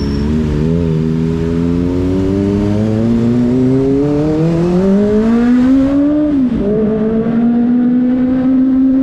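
Kawasaki ZX-25RR's 250cc inline-four engine pulling under acceleration, its pitch rising steadily for about five seconds. It then drops sharply at a gear change or throttle lift and holds a steady cruising note.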